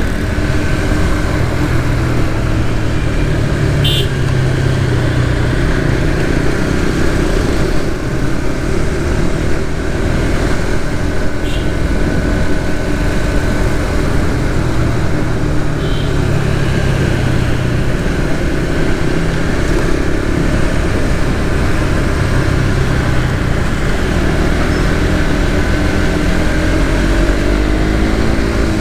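Suzuki GSX-S150's single-cylinder engine running under way in traffic, with heavy wind rumble. A few short horn toots sound briefly, and the engine pitch rises near the end as it accelerates.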